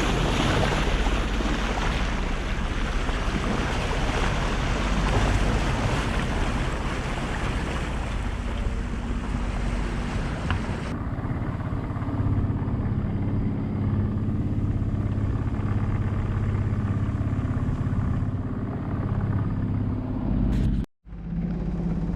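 Wind and rushing water of a sailboat under way at sea, with wind buffeting the microphone. After a cut about halfway through, a steady low engine hum takes over, and there is a brief dropout near the end.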